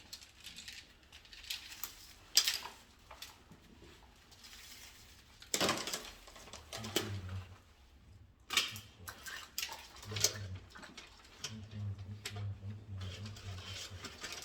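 Hand tools and small wiring parts being handled at a workbench: irregular clicks, light metallic clatter and short scrapes with pauses between them, and a low steady hum for a couple of seconds near the end.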